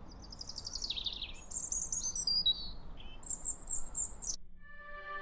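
Small birds chirping and twittering: runs of quick high chirps, some sliding downward in pitch. Music with long held notes comes in a little over four seconds in.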